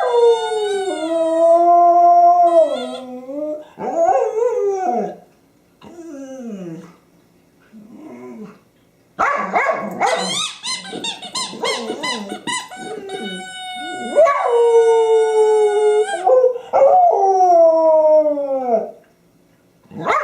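Dog howling in long calls that slide down in pitch, with a stretch of quick squeaks from a squeaky toy and short yips in the middle.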